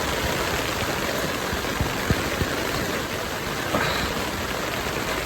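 Heavy downpour pouring onto a BUNDOK Solo Dome tent, heard from inside as a steady rushing noise, with a few faint sharp drop ticks around two seconds in. The rain has gone past the tent's waterproof rating and is leaking inside.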